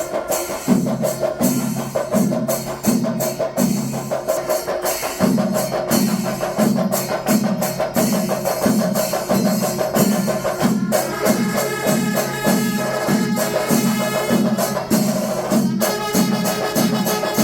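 Kerala temple percussion ensemble playing, with a steady deep drum beat under dense drum and cymbal strokes. Sustained pitched notes from a wind instrument join about eleven seconds in.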